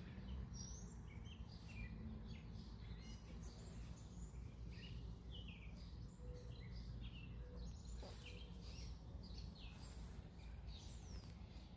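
Several birds chirping and calling in the trees: many short chirps and a few quick falling whistles, scattered irregularly, over a faint steady low rumble of background noise.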